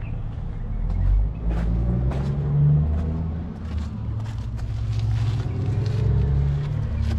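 A vehicle engine running steadily, with a brief rise in pitch and loudness about two and a half seconds in.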